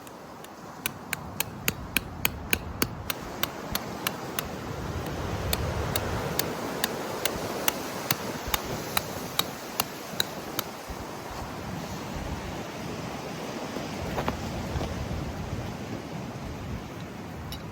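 Strong wind rushing and gusting, with a run of rapid sharp taps, about three a second, that stops about two-thirds of the way through.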